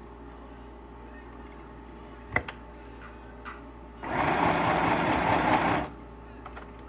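Donyer Power electric sewing machine running a short burst of stitching for about two seconds before stopping, after a sharp click a couple of seconds earlier.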